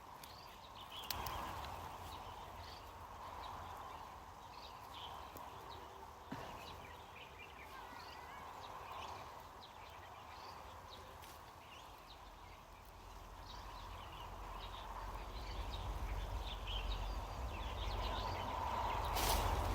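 Outdoor rural ambience with small birds chirping now and then, and a low rumble that builds over the last few seconds.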